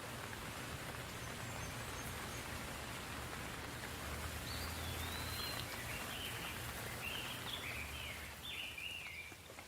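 Steady soft rain, with a bird singing a run of short, repeated chirping phrases over it in the second half.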